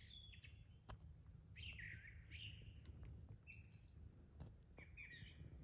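Faint wild songbirds calling: a few short chirps and warbled whistled phrases scattered across the moment, over a low steady background rumble.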